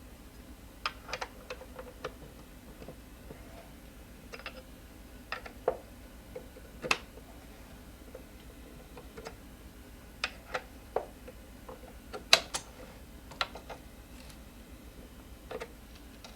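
Scattered metal clicks and taps of a wrench and locking pliers working on an e-scooter's suspension bolt while it is tightened until snug, irregularly spaced, with the sharpest clicks about seven and twelve seconds in.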